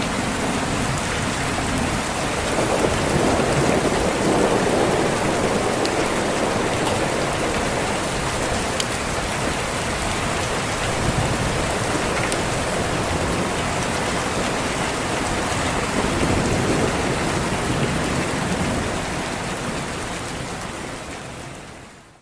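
Steady heavy rain on a window, with low rolls of thunder swelling a couple of seconds in and again near the end. Everything fades out over the last few seconds.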